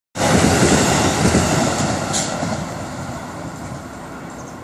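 Railway noise at a station platform: a loud rumble and hiss that sets in suddenly and fades steadily over a few seconds.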